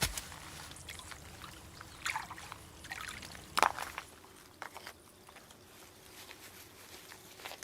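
Intermittent handwork noises: short rustling scrapes and knocks, the sharpest knock about three and a half seconds in.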